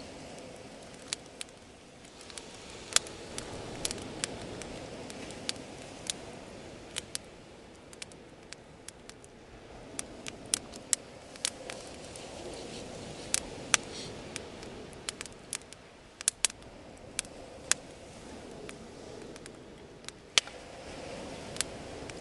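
Wood bonfire crackling, with frequent sharp, irregular pops and snaps over a low rushing that swells and fades.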